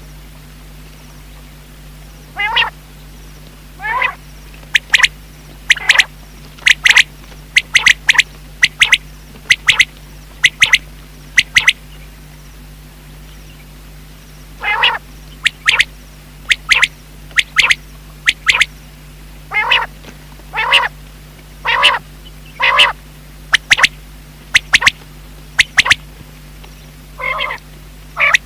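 Common quail calling over and over: runs of short, sharp notes alternating with longer calls that waver in pitch, with a pause of about two seconds midway.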